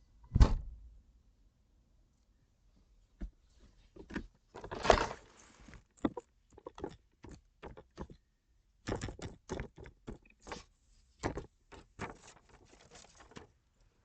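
A single loud thump, then a string of short knocks, clicks and rustling handling noises, with a longer scraping stretch about five seconds in.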